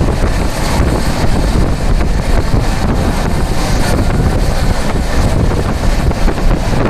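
Heavy wind buffeting the microphone from a moving vehicle, a steady loud rush with a deep rumble underneath.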